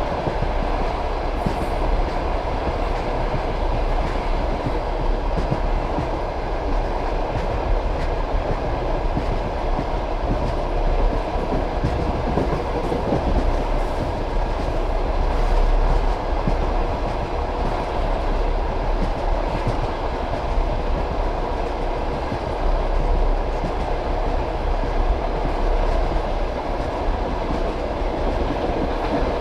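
Passenger train carriage rolling along the track, a steady rumble with the clack of wheels over rail joints.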